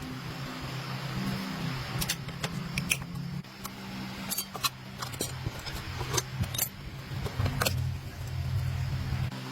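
Metal tools and parts clinking and tapping against each other in irregular sharp clicks, over a steady low hum.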